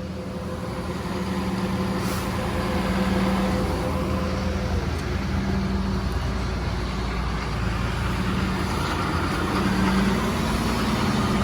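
Heavy diesel equipment engine running, growing louder over the first couple of seconds and then holding a steady drone, with a higher tone that drops slightly about halfway through.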